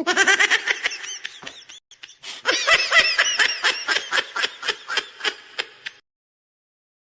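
A person laughing: a rapid run of high-pitched ha-ha bursts, about four or five a second, with a short break about two seconds in, cutting off abruptly about six seconds in.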